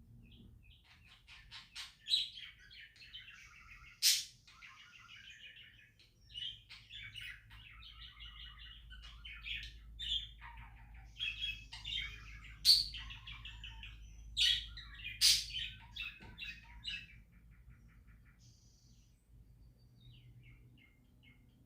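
Budgerigars chattering and chirping in a busy warbling stream, broken by a few sharp, loud chirps. The chatter dies down to a few faint calls for the last few seconds.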